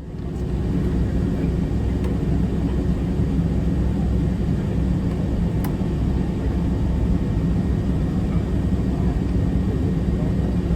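Inside the cabin of a Boeing 767-300ER lining up for take-off: a steady low rumble of the engines running at low power, with air and cabin noise.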